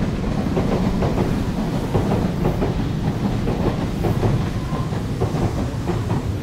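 Train running on the rails: a steady low rumble with irregular clicks of the wheels.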